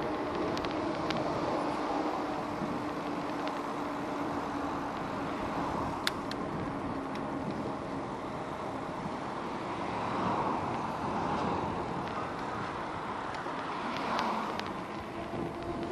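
Steady riding noise from an e-bike on a road, with traffic sounds around it. A few short rattling clicks, the sharpest about six seconds in, and two brief swells near ten and fourteen seconds.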